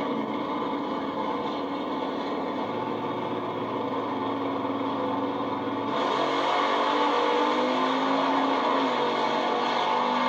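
Racing engines running with a steady note, getting louder about halfway through, after which the pitch shifts slightly up and down as the engines are revved.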